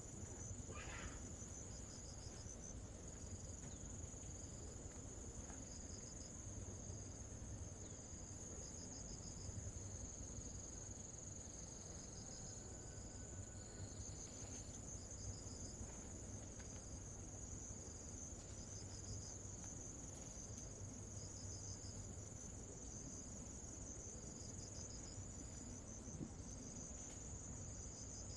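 Insects chirping: a continuous high-pitched trill with shorter, repeated pulsed chirps just beneath it, over a low steady background rumble.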